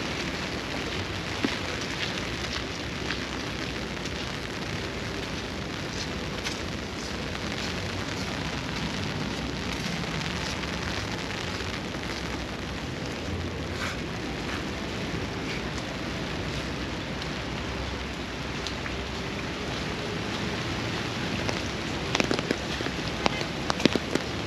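Steady rain falling, an even hiss with scattered sharp drop ticks that come louder and more often near the end.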